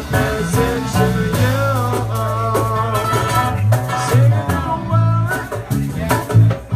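Live band playing a reggae groove: a bass line under short off-beat guitar chords, with a bending melody line on top.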